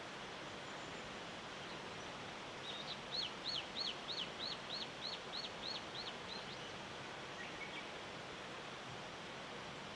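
A small songbird sings a run of about a dozen identical high notes, each a quick rise-and-fall whistle, about three a second for some four seconds, over a steady background hiss. A faint short call follows.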